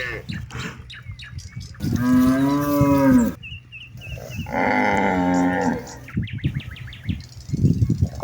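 Cattle mooing: two long moos, one about two seconds in and another about four and a half seconds in, each lasting about a second and a half.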